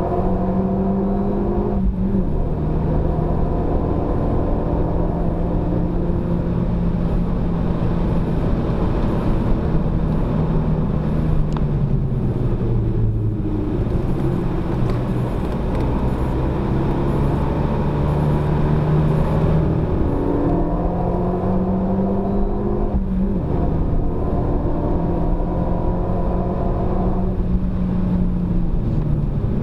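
Renault Mégane RS250's 2.0-litre turbocharged four-cylinder engine driven hard on a race circuit, heard from inside the cabin over road and tyre rumble. The engine note climbs through the revs and drops sharply at the gear changes, about two seconds in and again near twenty-three seconds. In the middle it falls away and builds back up through a corner.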